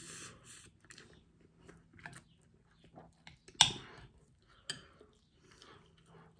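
Close-up chewing of a mouthful of rice, with a few sharp clicks of a metal spoon against the bowl, the loudest about three and a half seconds in.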